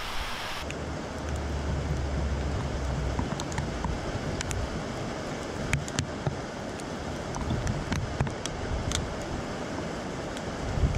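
Steady hiss of light rain with scattered sharp ticks of single drops striking close by, over a low rumble.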